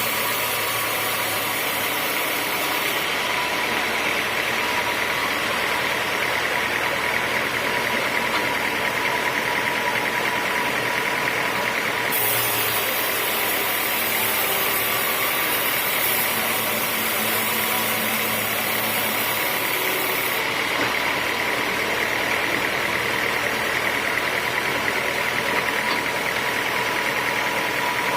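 Sawmill machinery running steadily: a continuous mechanical drone with a steady whine.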